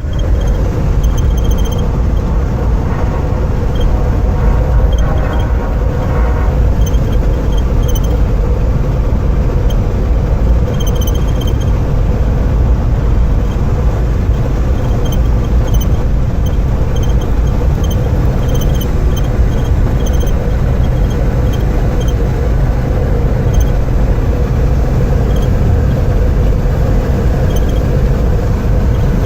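Steady, loud, low rumble of a moving vehicle, unchanging throughout, with a faint steady hum and light ticks above it.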